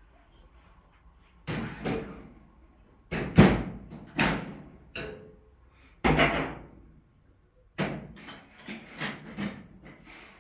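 A series of heavy knocks and thuds, about a dozen irregular strikes a fraction of a second to over a second apart, each dying away briefly.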